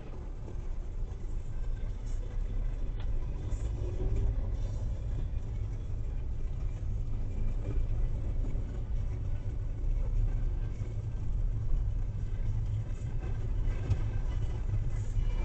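Steady low rumble of a car driving at low speed, its engine and tyre noise picked up by a dashcam inside the car.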